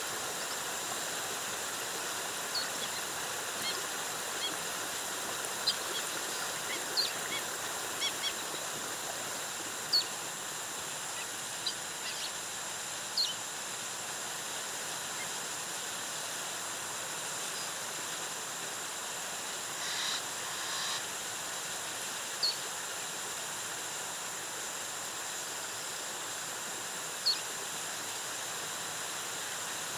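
Steady rush of a jungle waterfall, with short bird chirps scattered over it, most in the first half, a brief cluster about two-thirds through, and a couple of single calls near the end. A faint steady high tone runs underneath.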